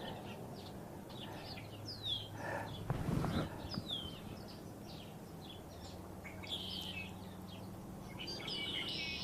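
Several small songbirds calling at feeders: a scatter of short, high chirps, several sliding downward in pitch, with busier bursts of chatter near the middle and again near the end.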